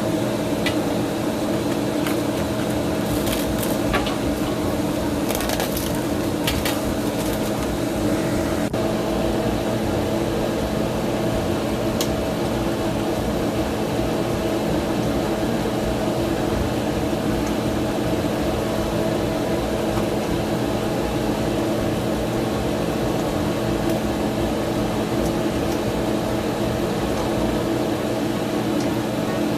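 A steady mechanical hum with hiss, as from a kitchen appliance or fan running while the crab legs steam. A few sharp clicks and knocks come in the first eight seconds.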